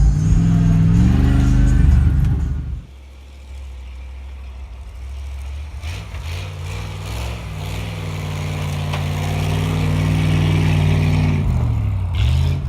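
1984 Dodge Ram pickup's engine pulling with a bed full of lumber, revving up at the start. The engine sound drops away sharply about three seconds in. It then builds again, holds a steady pitch, and falls off near the end.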